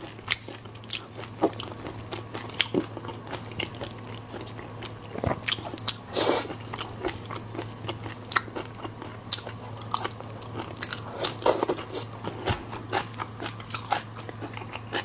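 A person eating seafood close to the microphone: irregular bites and chewing with crisp crunches and wet clicks, the loudest crunch about six seconds in.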